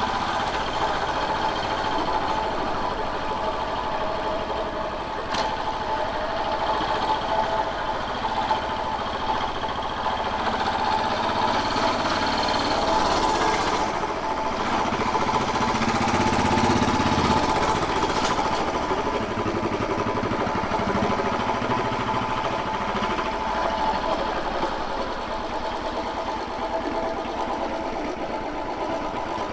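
Royal Enfield Bullet 500's single-cylinder engine running steadily as the motorcycle rides along, getting a little louder around the middle.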